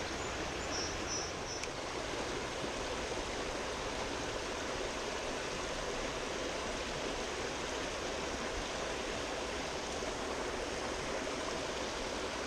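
Trout stream flowing steadily, a constant rush of water. A few faint high chirps sound about a second in.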